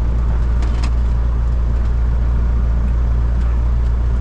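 Cessna 172's piston engine running steadily, a low, even drone.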